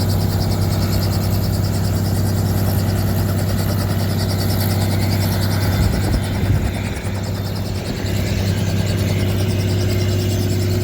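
Helicopter running steadily, a constant low engine-and-rotor drone with a fast even beat. There are a few low thumps about six seconds in, then it is briefly a little quieter.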